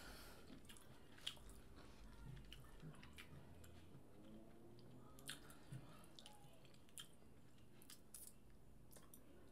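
Faint close-up chewing of a mouthful of seafood, with a few short sharp mouth clicks and smacks scattered through it.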